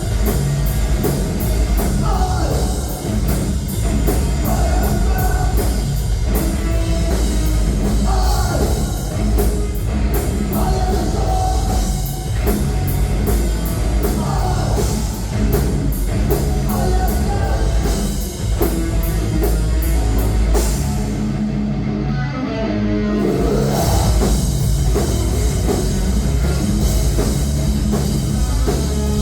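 Live rock band playing loudly: drum kit, distorted electric guitars and bass guitar. The cymbals drop out for about two seconds around three-quarters of the way through.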